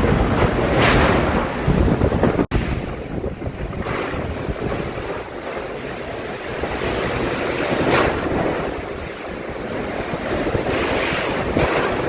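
Rushing water with wind buffeting the microphone, a steady loud wash that swells and eases in gusts. The sound cuts out for an instant about two and a half seconds in.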